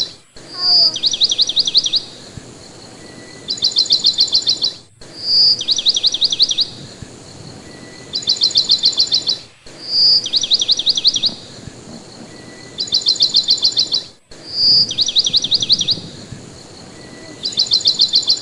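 Birdsong: a rapid high trill of about ten notes alternating with a short whistle followed by another trill, about every two seconds. The phrases repeat in an identical cycle roughly every four and a half seconds.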